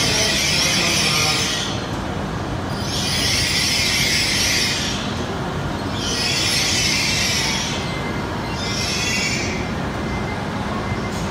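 E7 series Shinkansen train moving slowly along the platform as it arrives. There is a steady low rumble, and a high-pitched squeal from the running gear rises and fades about every three seconds as the cars go by.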